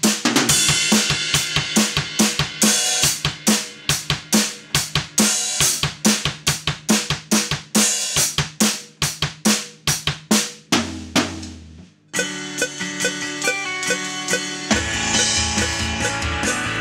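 Drum kit played: snare, kick and cymbal strikes in a fast, even stream. About twelve seconds in, after a brief drop, a fuller passage with pitched tones comes in over the drums.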